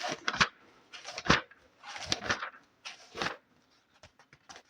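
Book pages being handled close to the microphone: a few short, crisp paper strokes about a second apart, then a run of faint small ticks near the end.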